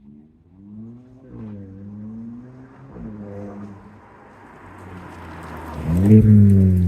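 Kia ProCeed GT's 1.6-litre turbo four-cylinder with a Bastuck aftermarket exhaust, accelerating with its note rising and dipping twice. It then grows loud and passes close about six seconds in, its pitch falling as it goes by.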